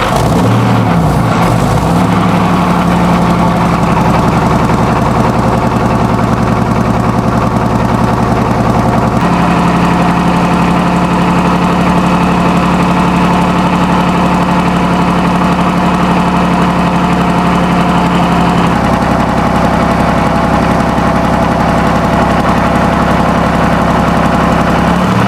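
Junkers JUMO 205C opposed-piston two-stroke aircraft diesel running loud and steady after coming in suddenly. Its tone shifts abruptly a few times, about two, nine and nineteen seconds in.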